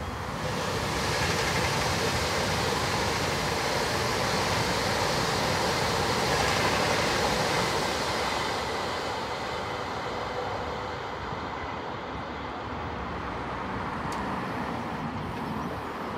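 Avanti West Coast Class 390 Pendolino electric train passing: a steady rush of wheels on rail that builds in the first second, is loudest about seven seconds in, then eases as the train draws away.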